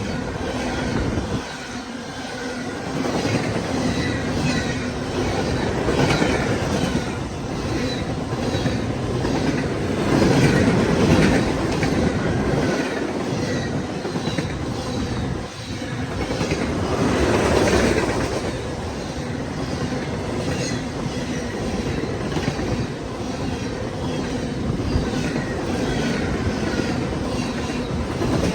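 Freight train cars rolling past, their wheels clicking in a steady clickety-clack rhythm over the rail joints, with the sound swelling a couple of times as it goes by.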